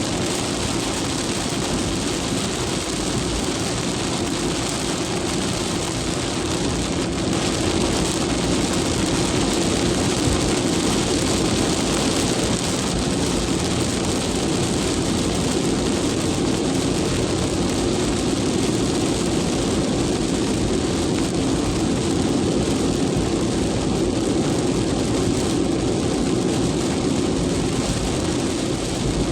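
Heavy downpour falling steadily, a constant even rush of rain with no breaks.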